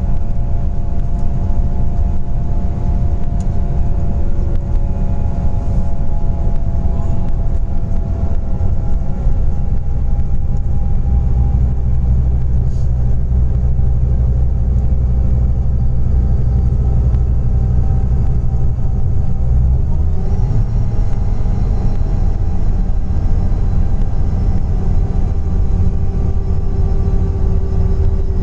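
Scania Interlink natural-gas bus on the move: a loud, steady engine and drivetrain drone with several steady whining tones above it. The deep rumble grows heavier about a third of the way in and eases about twenty seconds in.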